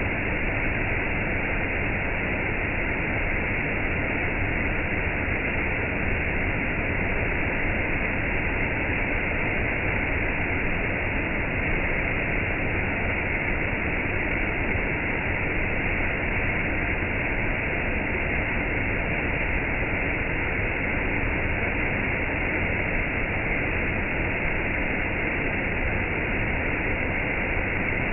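Steady, even rush of falling water from rain and a waterfall, unchanging throughout.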